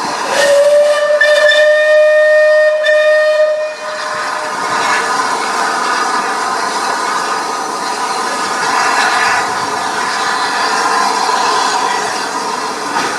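Steam locomotive whistle blown once for about three and a half seconds, a single tone rising slightly in pitch. Steady loud hiss of escaping steam follows.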